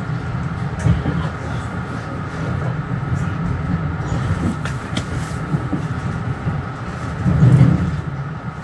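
Metro-North commuter train running along the track, heard from on board: a steady low rumble with a faint steady whine above it, a few sharp clicks, and a louder swell of rumble about seven and a half seconds in.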